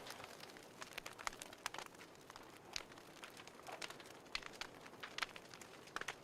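Wood fire crackling in a fireplace: quiet, irregular sharp pops and snaps at random intervals over a faint hiss.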